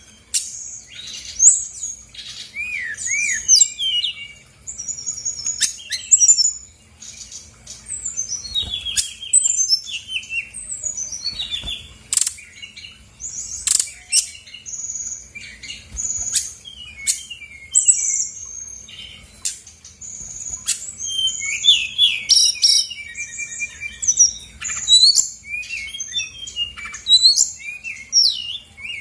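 Brown-chested jungle flycatcher singing a fast, varied song of sliding whistles, trills and quick chirps, with hardly a pause, showing off its repertoire of borrowed phrases.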